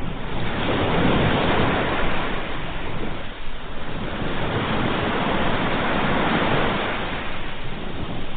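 Ocean waves breaking and washing on the shore, two swells of surf rising and falling one after the other.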